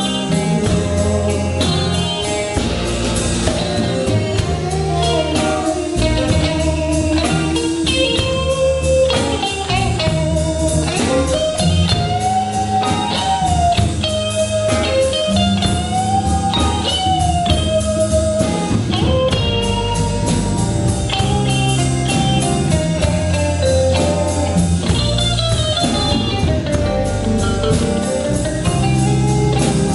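A band playing a slow song: a bending melodic lead over electric guitar, bass and drum kit.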